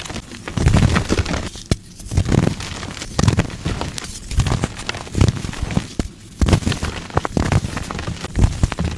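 Soft gym chalk being crushed and crumbled, a series of crumbling bursts with sharp little snaps and dull thuds, roughly one a second.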